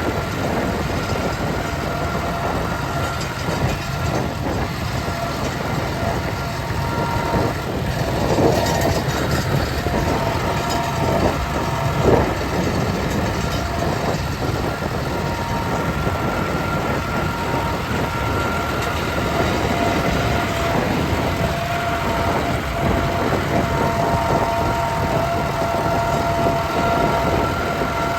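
Ford 4000 tractor running steadily while hauling a loaded trolley, with a steady whine over the engine noise and a couple of brief knocks partway through.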